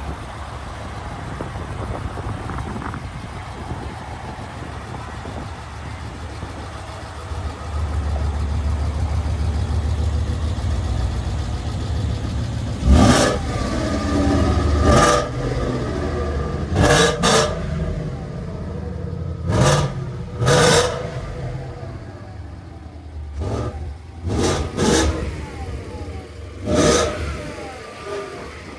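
2016 Ford Mustang Shelby GT350's 5.2-litre flat-plane-crank V8 idling with a steady low rumble, then revved in about ten quick throttle blips from roughly halfway through, each surge in engine note dropping straight back to idle.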